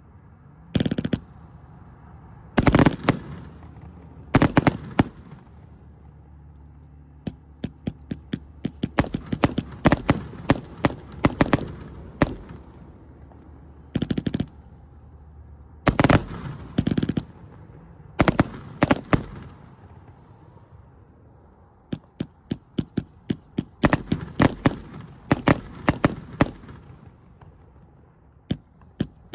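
An 86-shot consumer fireworks cake firing its shots. There are a few single sharp bangs a second or two apart, then quick rattling strings of many shots, with a brief lull a little after halfway before more rapid volleys.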